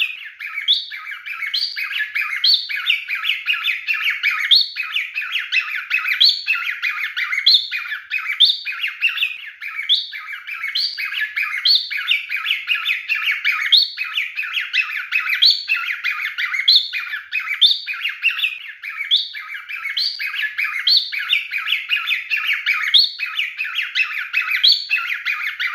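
Pied cockatiel singing: a short rising whistle followed by a chattering warble, repeated about once a second.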